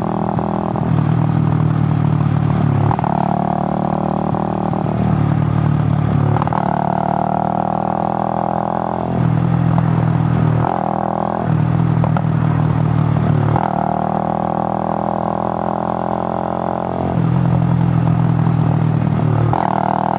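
Suzuki GN 125's single-cylinder four-stroke engine running under way, its note shifting back and forth every few seconds between a deeper pulling tone and a higher tone as the throttle is worked.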